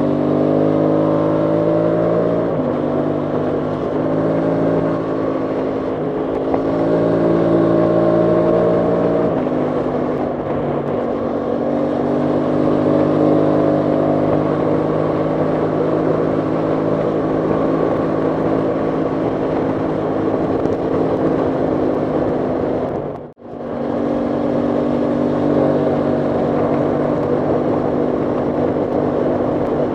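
Aprilia Tuono 660 Factory's parallel-twin engine under way. It climbs in pitch through the gears, with upshifts about two and a half and nine seconds in, then holds a steady cruising note. The sound cuts out for a moment about 23 seconds in.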